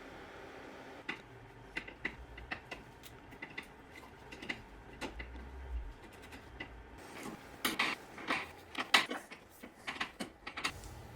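Metal tools and parts clinking and clicking as they are handled, irregular sharp ticks starting about a second in and growing denser and louder in the second half.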